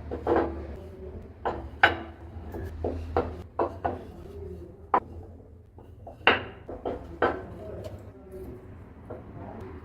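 Irregular sharp knocks and clatter from hand work on wood, about a dozen strikes in ten seconds, loudest around two, five and six seconds in, over a steady low hum.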